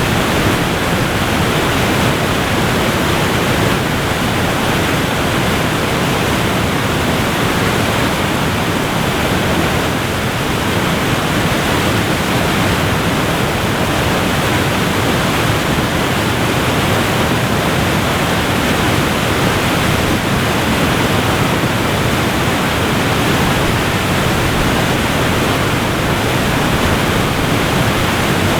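A waterfall's falling water, a steady, even rush of noise with no changes.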